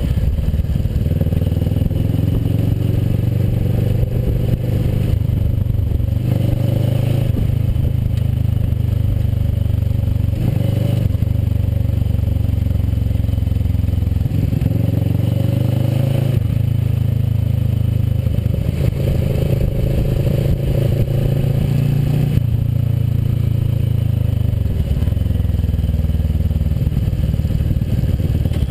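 Kawasaki Versys motorcycle engine running while riding, its note rising and falling several times as the throttle opens and closes.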